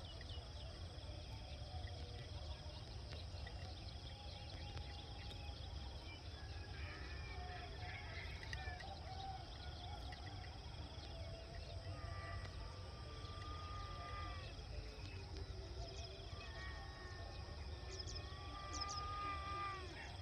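Countryside ambience: a steady low rumble under faint insect and bird chirps, with two long held animal calls, the first about twelve seconds in and the second, ending in a falling dip, about sixteen seconds in.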